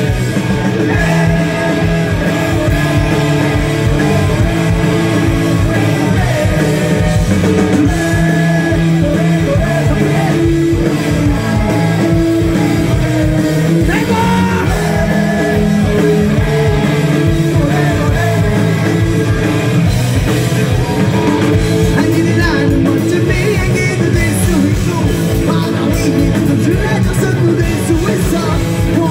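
A Korean punk rock band playing live and loud, with singing over a steady, driving drum beat.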